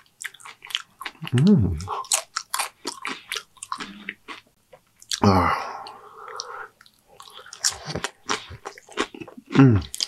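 Close-miked chewing of cheese-covered Doritos nachos: wet smacking with some crunches. A few short hums from the eater come about a second and a half in, around five seconds in, and near the end.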